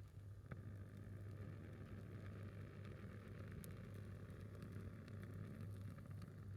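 Faint crackling of a single piece of firewood burning, with a few sharp pops over a steady low hum.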